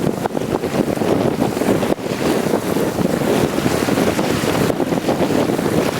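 Wind buffeting the microphone aboard a sailing ketch under way, a steady rumbling rush, with the sound of water moving past the boat beneath it.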